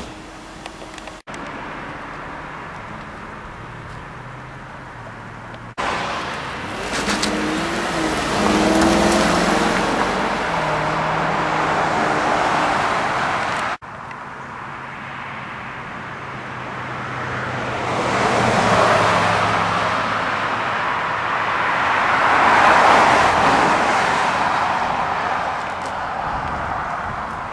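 2005 Jaguar Super V8 with its supercharged 4.2-litre V8, being driven: engine note and tyre-on-road rush, heard in several short pieces joined by sudden cuts. The engine pitch rises and falls about a third of the way through, and the road rush swells twice in the second half.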